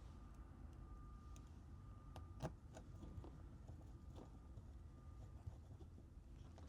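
Faint small clicks and taps of tools and small parts being handled while a smartphone is reassembled, with one sharper click about two and a half seconds in, over a low steady hum.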